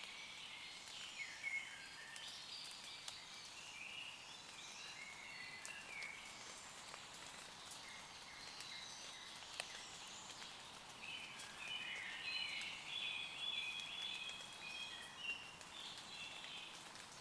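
Woodland birds singing over scattered raindrop ticks on leaves, with chirping song in the first few seconds and again from about eleven seconds in.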